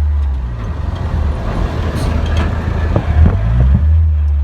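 Car engine running while driving, its low hum turning uneven and choppy, with a few sharp knocks and rattles in the middle.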